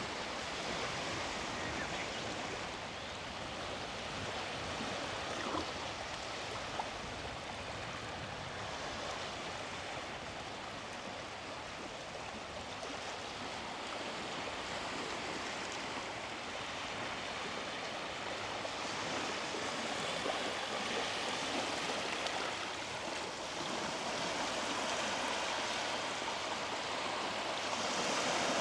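Sea surf washing onto the beach: a continuous rush of small waves that swells and eases, growing louder in the last few seconds.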